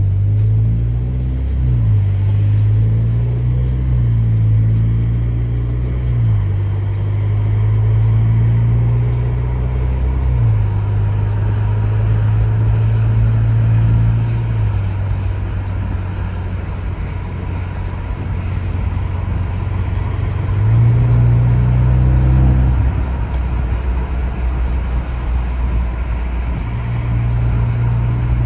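Exhaust of a 2017 Alfa Romeo Giulia's four-cylinder engine with a muffler delete, heard from inside the car while cruising: a steady low drone whose pitch steps up and down several times as the automatic gearbox shifts and the throttle changes.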